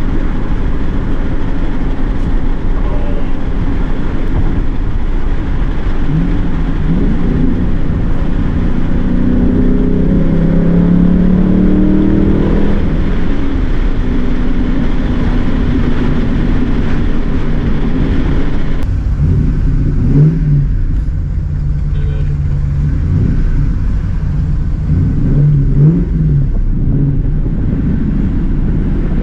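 Ford Mustang GT's 4.6-litre V8 running, its revs rising and falling as it accelerates, with a few short throttle blips in the last third.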